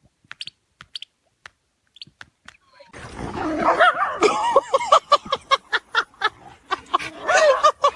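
A dog yipping and whining in quick, short, rising-and-falling cries, starting about three seconds in after a few faint clicks.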